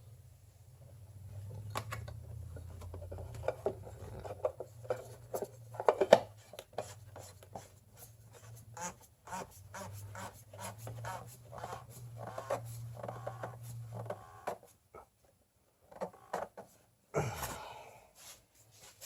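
Clicks, taps and rubbing from parts and tools being handled, over a low steady hum that stops about fourteen seconds in; a louder scrape comes near the end.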